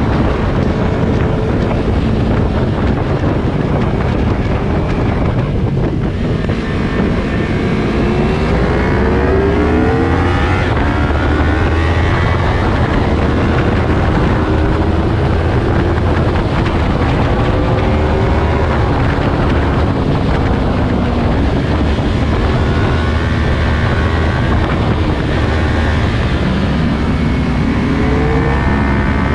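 Yamaha R3's parallel-twin engine pulling hard through the gears, its pitch rising and dropping with each upshift, under heavy wind rush on the microphone.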